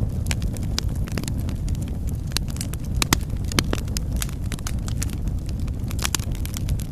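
Wood fire crackling in a fireplace: irregular sharp pops and snaps over a steady low rumble of the flames, with a couple of louder pops around the middle.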